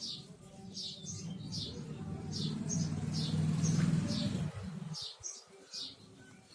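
A small bird chirping over and over, short high chirps about twice a second. Under them a low rumble swells and then cuts off about four and a half seconds in.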